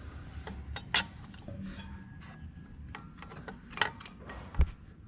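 Scattered clicks, rubbing and knocks of hands working a fan belt onto the engine's crankshaft pulley, with sharp clicks about a second in and near four seconds and a dull knock near the end.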